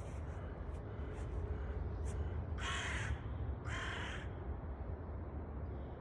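Two short, harsh animal sounds, each about half a second long and about a second apart, over a steady low rumble.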